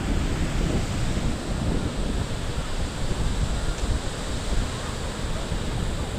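Ocean surf washing on the shore with wind buffeting the microphone: a steady rushing noise with a heavy, uneven low rumble.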